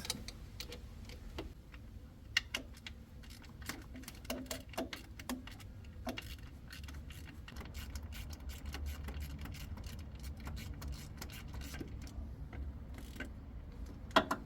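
Irregular metallic clicks and clinks of hand tools working on the clutch actuator of a Toyota MMT gearbox as it is being unbolted, over a low steady hum.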